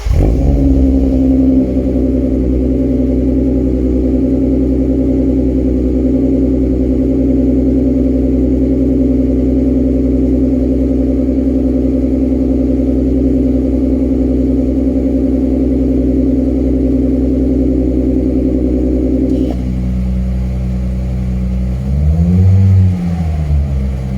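Audi A4 B5 2.8 V6 running just after a cold start through an aftermarket active exhaust, at a steady fast idle. About twenty-two seconds in it is revved once, the pitch rising and falling back.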